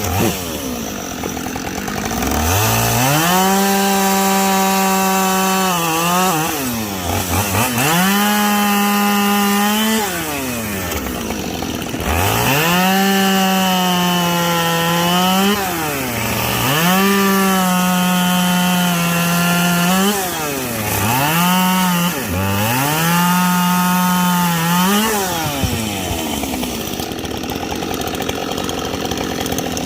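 Two-stroke chainsaw bucking firewood logs: the engine revs to full throttle and holds there for two to four seconds at a time, dropping briefly in pitch between cuts and climbing again, about seven times.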